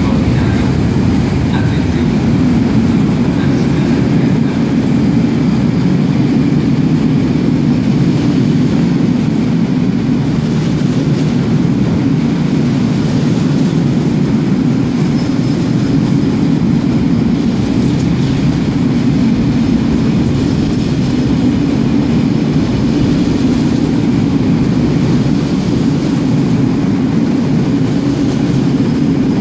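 Freight train wagons rolling past at speed: a steady, loud rumble of wheels on rail that holds unbroken, echoing in an enclosed underground station.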